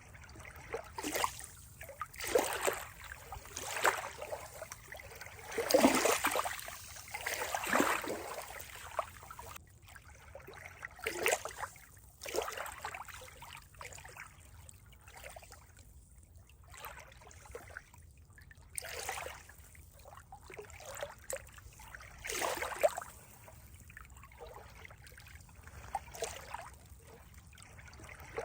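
Running water splashing and trickling in small, irregular bursts, with a few louder surges.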